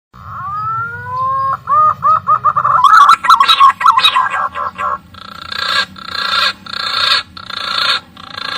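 Green pigeon (punai) calling. A rising whistled note is followed by a quick run of short whistled notes, then a tangle of notes and a series of about five harsh, rasping calls.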